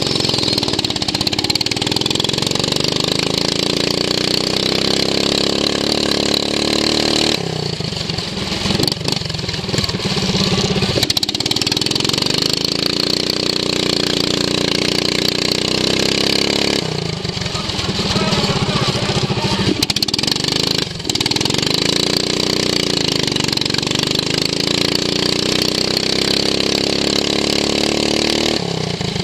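Racing lawn mower's engine heard onboard, running hard with its pitch repeatedly rising as it revs up and falling as the throttle is lifted, with longer drops about a quarter and two thirds of the way through and a brief cut in level a little after the middle.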